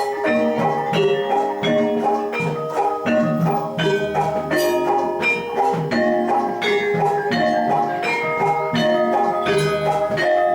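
Javanese gamelan music accompanying jathilan: bronze metallophones striking a steady, repeating pattern of ringing pitched notes over regular drum strokes.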